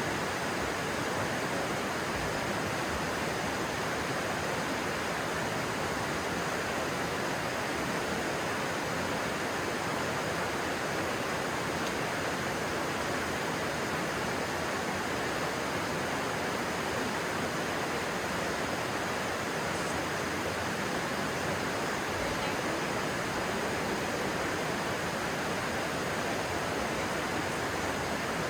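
Steady rushing of a stream's flowing water, an even unbroken noise.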